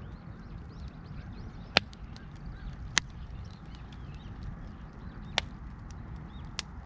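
Wood fire crackling, with four sharp pops spaced irregularly over a low steady rumble.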